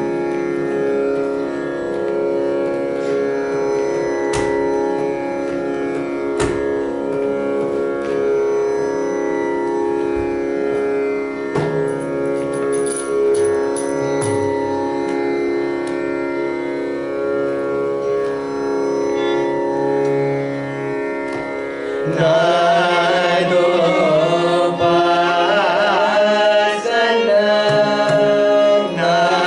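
Carnatic music: a steady drone under a slow melodic line, with a few sharp mridangam strokes. About 22 seconds in, a singing voice comes in louder with wavering, ornamented notes.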